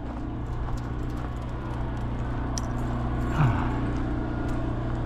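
A vehicle engine running steadily at a low, even pitch. About three and a half seconds in, a brief sound slides down in pitch over it.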